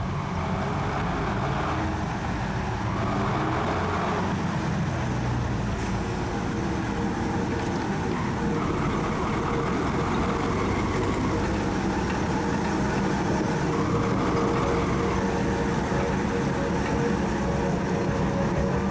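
A heavy vehicle's engine running steadily, low and even, with a steady hum through it.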